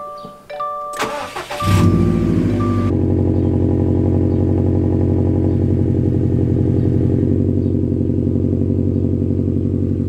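Dashboard warning chime pinging, then the 2020 Subaru WRX STI's turbocharged 2.5-litre flat-four cranks and catches about a second and a half in. It flares up briefly and settles into a steady idle through its Remark axle-back exhaust. This is a cold start before warm-up, on a stage 1 Cobb pro tune with a Cobb intake.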